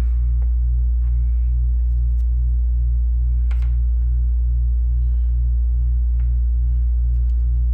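Air-conditioning unit running with a loud, steady low hum and a throb that pulses about twice a second. A single light click sounds about halfway through.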